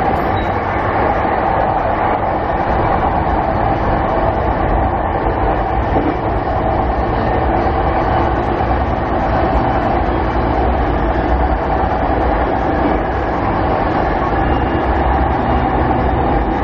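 Onboard running noise of a JR 209 series 500 subseries electric commuter train's motor car at a steady pace: continuous wheel-and-rail rumble with a steady mid-pitched hum.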